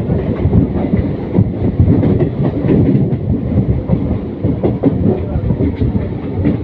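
Local passenger train running along the track: a steady low rumble with irregular clatter and knocks of the wheels over the rails.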